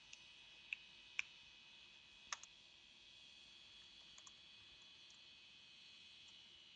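Near silence with a faint steady high-pitched hum, broken by a few short faint clicks in the first two and a half seconds.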